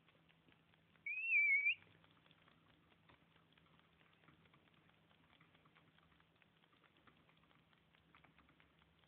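A single short, high whistle with a wavering pitch, lasting under a second, about a second in; a faint crackling runs underneath.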